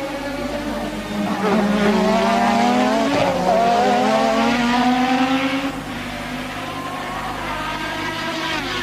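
1988 Formula One car engines at high revs. One car grows much louder about a second and a half in, its engine pitch climbing twice with a short break between, then drops back near six seconds, leaving other cars running more faintly.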